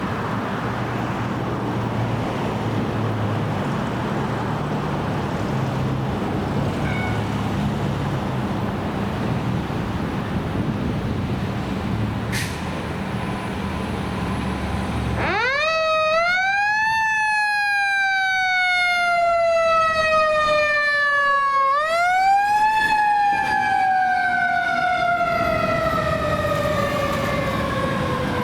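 Fire engine siren wailing: after about fifteen seconds of engine rumble and traffic noise, it winds up quickly and then falls slowly. A second quick rise comes about seven seconds later, followed by a long slow fall.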